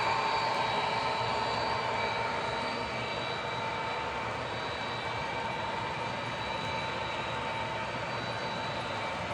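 Model train running on the layout: the electric motors of two locomotives give a steady whine, over the rumble of wheels on track, a little louder at the start.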